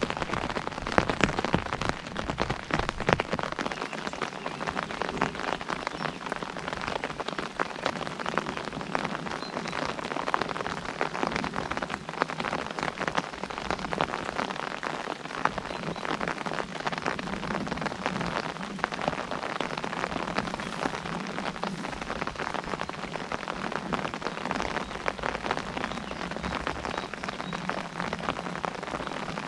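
Rain falling on an umbrella: a dense, steady patter of drops striking the canopy.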